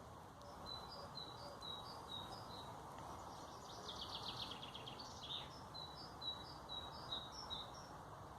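Wild songbird singing a quick series of repeated two-note phrases, high-pitched and alternating between two pitches, with a rapid trill from a bird in the middle, over a steady faint background hiss.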